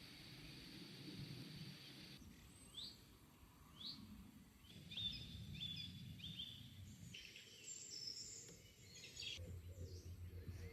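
Faint songbirds chirping and twittering: a couple of short upward chirps, then quick high twittering phrases, over low background noise. A low pulsing hum comes in near the end.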